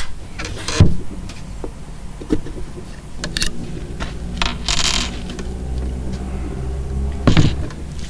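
Sharp knocks and light metallic clinks from handling the beehive roof and its metal securing pins, the loudest knocks about a second in and near the end, with a short scrape in the middle, over a steady low hum.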